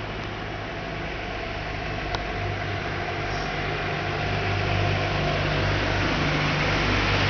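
Car engine idling: a steady low hum under a hiss that grows gradually louder.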